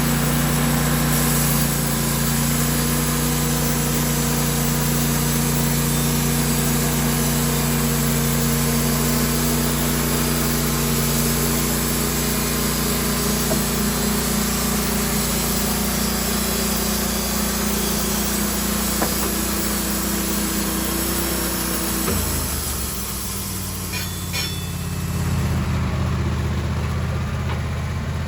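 An engine runs steadily, then about three-quarters of the way through drops to a lower speed and settles there.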